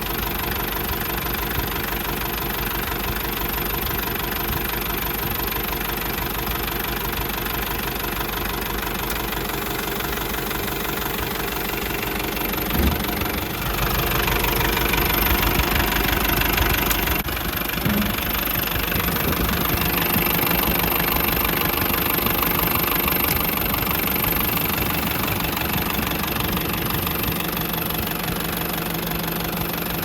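Nissan ED30 diesel engine of a C240 Cabover dump truck running steadily. A short knock comes a little under halfway through, and after it the engine runs somewhat louder.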